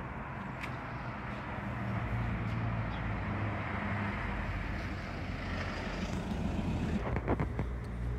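A motor vehicle's engine running nearby, a low hum that swells and fades, with a few sharp clicks near the end.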